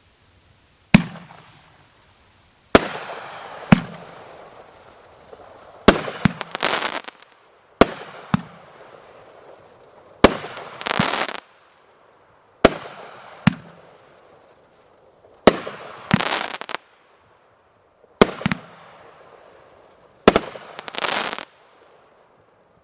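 A 500-gram consumer fireworks cake firing a sequence of about nine shots, one every two to three seconds. Each shot is a sharp launch thump followed by a bang. Several shots end in about a second of dense crackling.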